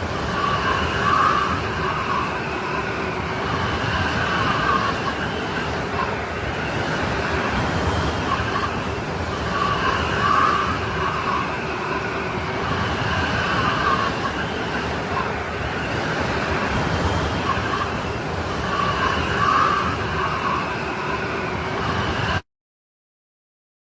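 Strong snowstorm wind howling, with a whistling tone that swells about every nine seconds, then cutting off suddenly to silence for about two seconds near the end.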